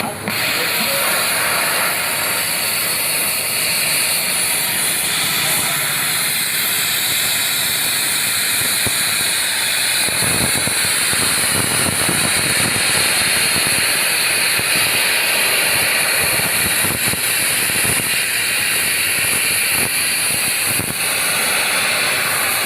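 Air plasma cutter (a 120-amp class machine) cutting: a loud, steady hiss of the arc and its compressed air, with a rough crackle underneath that grows stronger about ten seconds in.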